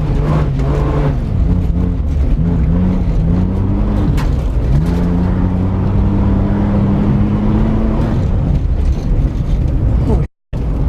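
Saturn L300's 3.0-litre V6 revving hard under full throttle on a rally stage, its pitch climbing and dropping back in steps with the automatic's gear changes. It then holds a steady high pitch for a few seconds before easing off. The sound cuts out completely for a moment just before the end.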